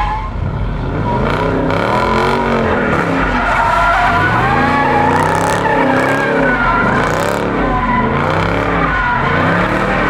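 A car drifting: its engine revs up and down again and again, about once a second, while its tyres squeal without a break.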